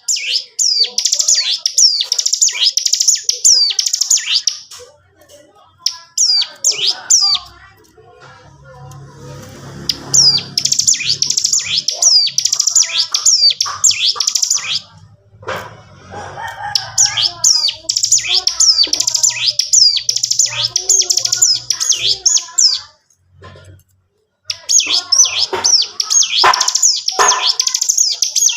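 Ciblek gunung singing in rapid, high-pitched chattering trills ('ngebren'), in four or five long phrases broken by short pauses. A faint low hum runs under the middle phrases.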